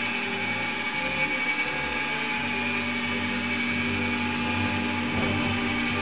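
Steady machinery hum and whine of the Stretham Old Engine's drainage engine being turned by its electric drive, with several constant tones over a continuous mechanical noise.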